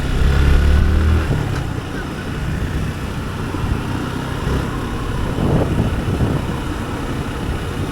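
Motorcycle riding in city traffic: the engine runs under a steady rush of road and wind noise, with a louder low rumble for about the first second as it pulls away.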